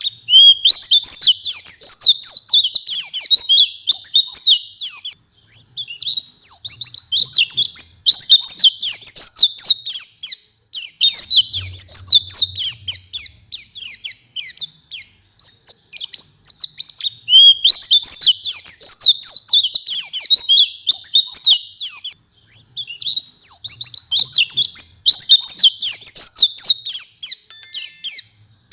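White-eye (pleci) singing in full song: long runs of rapid, high twittering notes lasting several seconds each, separated by brief pauses.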